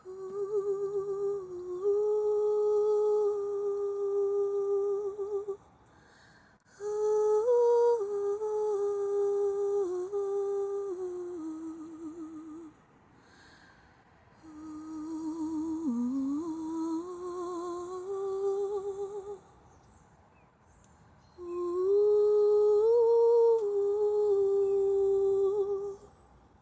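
A woman humming in four long, slow phrases of held notes, each a few seconds long with short pauses between, the pitch stepping and once sliding down and back up in the third phrase.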